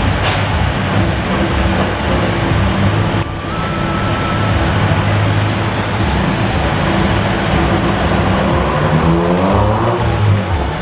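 Car engine running hard on a chassis dynamometer, with its pitch climbing over the last couple of seconds as it revs up.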